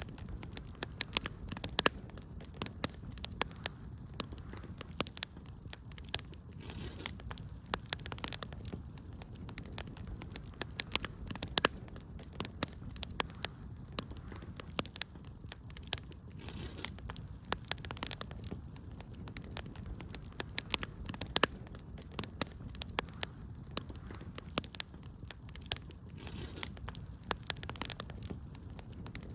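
Wood fire crackling in a fireplace: many sharp irregular pops and snaps over a low steady rumble of burning.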